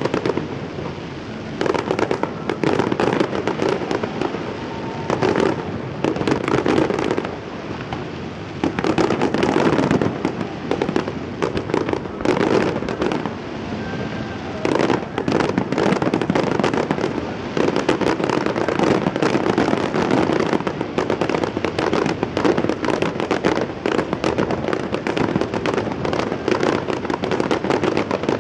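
Fireworks display: a dense, continuous barrage of bangs and crackles going off in rapid succession, swelling and easing in waves.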